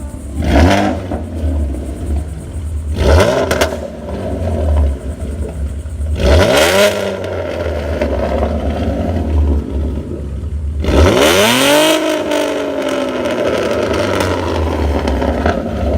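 Ford Mustang 3.7 L V6 with an off-road X-pipe and no catalytic converters, revved four times from idle, each rev rising sharply and falling back; the last, about eleven seconds in, is the longest. Between revs the exhaust idles with a low rumble.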